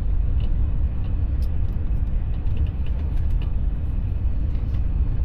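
Steady low rumble of a high-speed train running at speed, heard inside the passenger carriage, with faint light ticks now and then.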